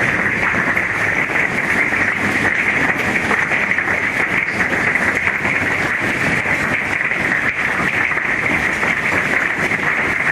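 Golf-ball-sized hail pelting down hard and steadily, a dense continuous clatter of countless small impacts.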